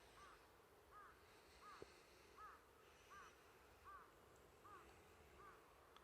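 Faint, regular series of short arched calls, about eight of them, one every three-quarters of a second, with a single sharp click about two seconds in.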